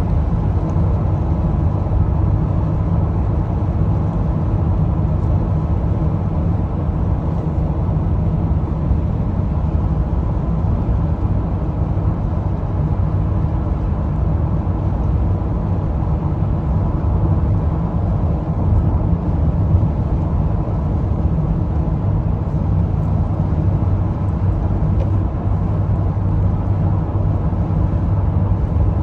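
Car driving at a steady pace: continuous low road and engine noise with no changes.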